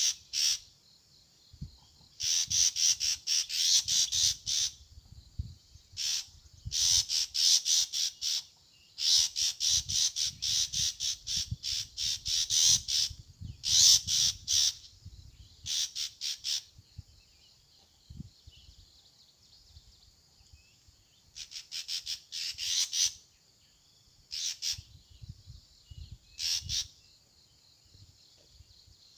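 A bird calling in high-pitched, rapid trills that come in about ten separate bursts, each from a fraction of a second to about three seconds long, with short pauses between.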